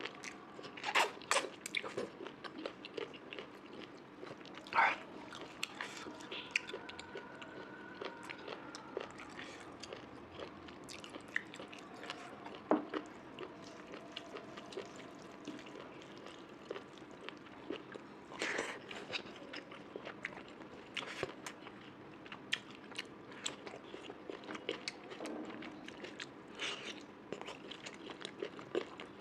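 A person eating close to the microphone: chewing and biting through a meal of mutton curry, pork fry, rice and salad, with many small crackles and louder crunchy bites about a second in, near five seconds and around eighteen seconds.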